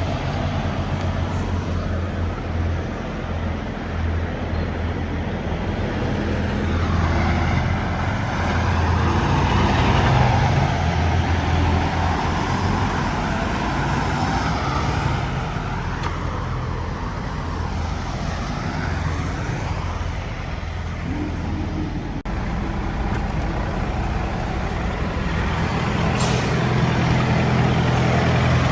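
A vehicle's engine running with road noise, a steady low hum under a continuous rush that swells louder around the middle.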